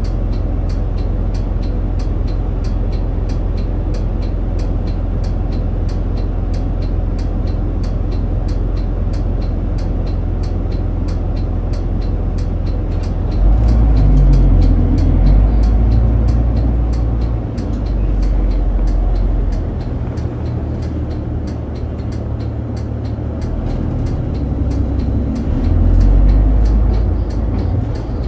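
Route bus heard from inside the cabin while driving: a steady low engine and road rumble. About halfway in the engine gets louder, then rises and falls. A regular high ticking runs over it.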